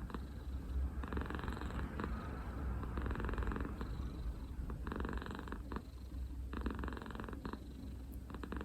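A senior cat purring steadily and close up, a low rumble that swells in waves with its breathing.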